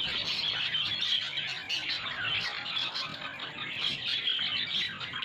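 Budgerigars chattering and warbling steadily.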